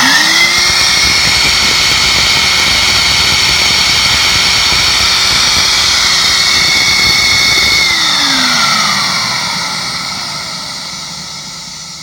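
Mytee Airhog vacuum motor running loud with its exhaust unmuffled through a side port: it spins up quickly at the start, runs at a steady high whine, and is switched off about eight seconds in, winding down with falling pitch and fading.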